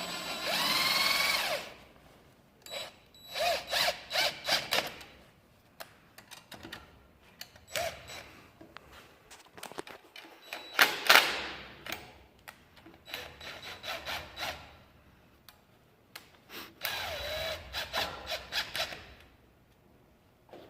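Handheld power drill running in several bursts, its motor whine rising in pitch each time it spins up, with short knocks and clatter of work between the runs.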